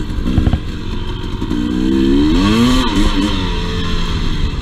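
Two-stroke dirt bike engine running under the rider, revved up and back down once in the middle, with a few short knocks early on from the bike over rough ground.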